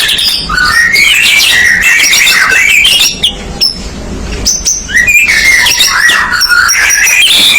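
White-rumped shama (murai batu) singing in full, non-stop song: a loud, rapidly varied run of whistles, sweeps and chattering phrases, with short breaks around three and five seconds in.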